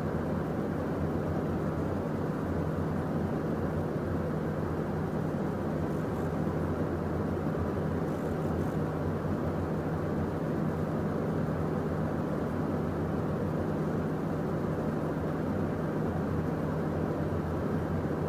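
Steady cockpit noise of a Beechcraft Premier 1A jet in the climb: an even rush of airflow and engine noise with a constant low hum, unchanging throughout.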